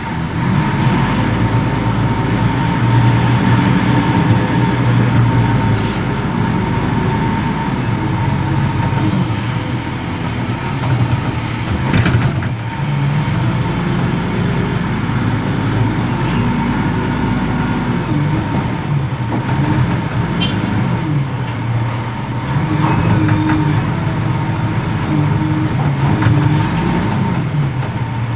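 Reach stacker's diesel engine running under working load, its pitch rising and falling, with a steady thin whine over it. A single knock comes near the middle.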